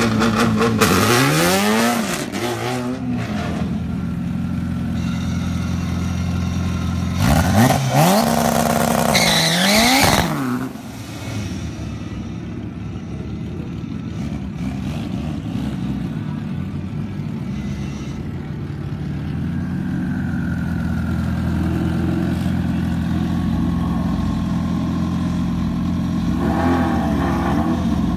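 Honda Civic EG hatchback drag cars' engines revving hard with wheelspin in two bursts of rising pitch, one at the start and one about seven seconds in, spinning the slicks to warm them up. Between and after the bursts the engines idle steadily, with a shorter rev near the end.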